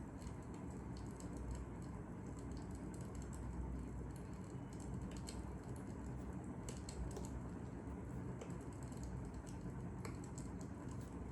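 Fire crackling: irregular sharp pops and snaps over a faint low rumble.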